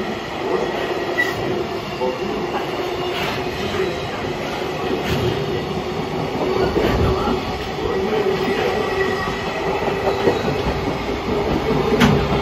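Container flat wagons of a freight train rolling past slowly as it pulls away, with a steady tone and rumble from the wheels. The wheels click over rail joints about every two seconds, and the clicks come closer together near the end as the train gathers speed.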